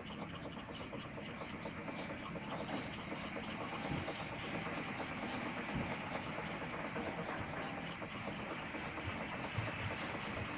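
Steel blade of a Maestro Wu G3 fish knife stroked on a Naniwa 4K finishing whetstone: a steady scratchy hiss of steel sliding over the stone as the curved edge is rocked back and forth.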